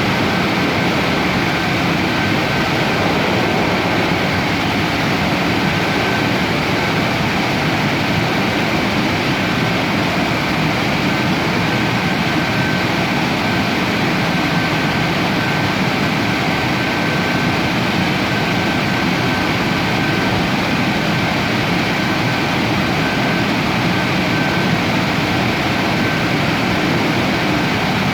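Automatic car wash machinery running with a loud, steady rushing noise, with a faint high whine that comes and goes.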